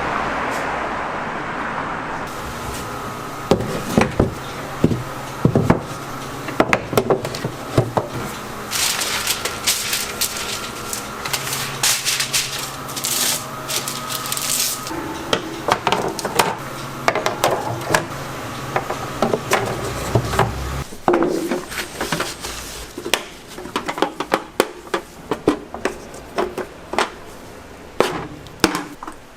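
Kitchen work clatter: irregular knocks and clinks of utensils and containers, with a hiss in the middle stretch lasting several seconds.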